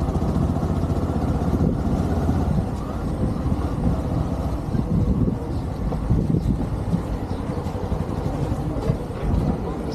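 Motorcycle riding along a road: a steady, low-pitched engine and road rumble.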